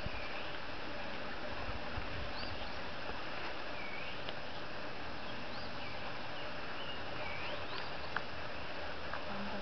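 A songbird calling over and over, short swooping whistled notes every second or so, over a steady outdoor hiss.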